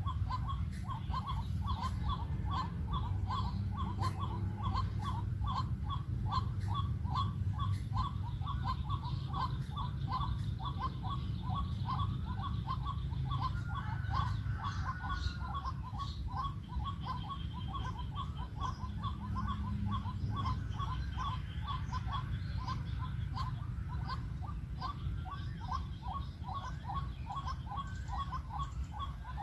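White-breasted waterhen calling: a steady run of short, quick notes at about three a second, over a steady low rumble.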